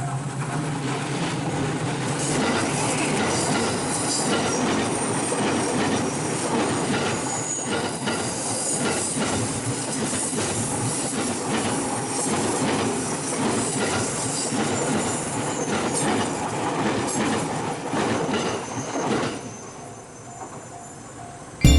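A train running past on rails, with wheels squealing in high tones, fading away a couple of seconds before the end.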